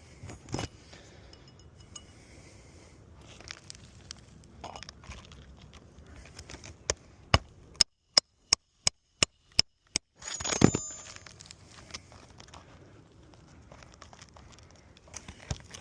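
Hammer tapping a roofing nail down into an asphalt shingle: a run of about nine sharp, evenly spaced metallic taps, two or three a second, then one heavier blow with a short ring. Faint handling noise of the shingle before the taps.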